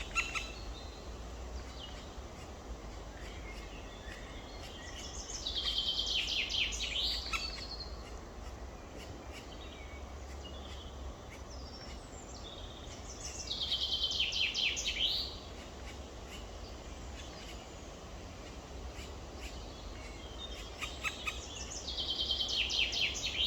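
Black woodpecker chicks calling in three bouts of rapid repeated calls, each lasting two to three seconds, spaced about eight seconds apart.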